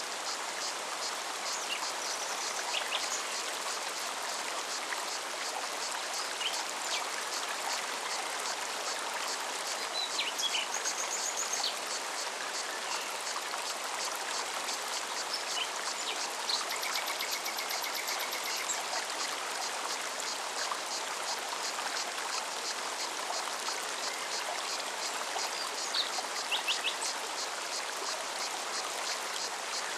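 Forest stream running steadily over rocks, with a cicada's rapid, even pulsing song throughout. Short bird chirps come now and then, and a high thin trill sounds a little past the middle.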